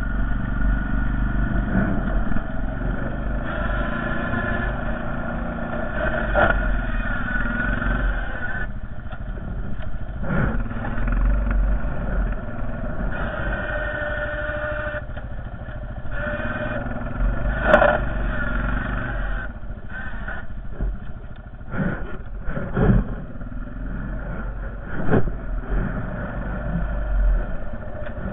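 Honda Foreman TRX450ES ATV's single-cylinder four-stroke engine running under load, rising and falling in revs, with several sharp knocks and clunks, the loudest about 18 seconds in and a cluster between about 22 and 25 seconds.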